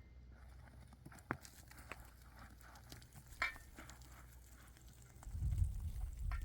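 A few scattered sharp knocks and taps over a faint low hum, then a low rumbling stretch near the end.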